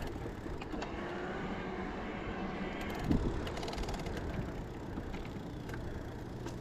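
Steady road and wind noise from an e-bike being ridden, with a short rattle about three seconds in.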